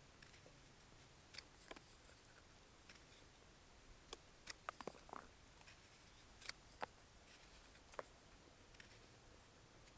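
Faint, irregular clicks and light knocks at a near-silent background, bunched near the middle of the stretch.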